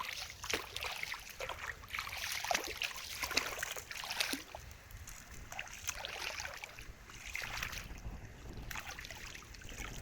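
Irregular splashing and sloshing of shallow water, in many short uneven strokes.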